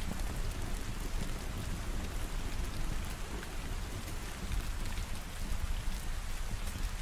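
Steady rain falling, a dense patter with a continuous low rumble underneath.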